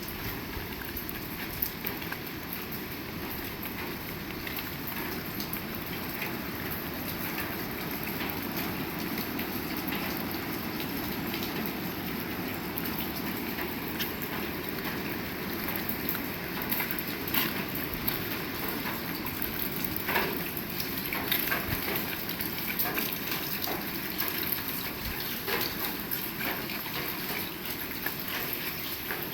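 Heavy rain falling: a steady hiss with many sharp close drop hits scattered through it.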